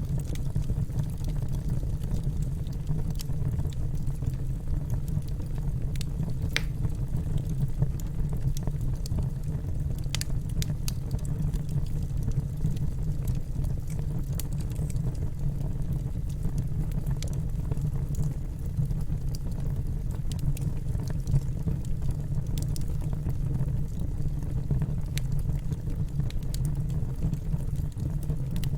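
Campfire burning: a steady low rush with scattered sharp crackles and pops of burning wood.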